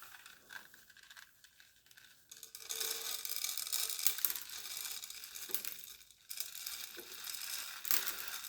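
Birdseed being poured onto a bird feeder's platform: a dense dry patter of many small seeds starting about two and a half seconds in, with a few sharper clicks among it.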